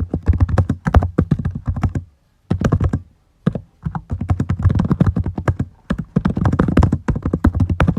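Typing on a computer keyboard: fast, irregular keystrokes in quick runs, broken by two short pauses about two and three seconds in.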